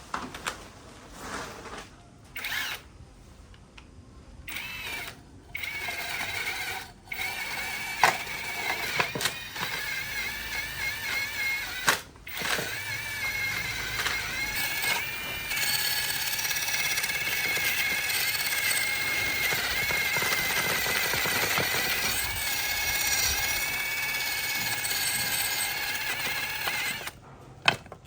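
Handheld electric power tool whining. It is triggered in several short bursts with abrupt stops, then runs almost continuously with a slightly wavering pitch as it works under load. It stops shortly before the end.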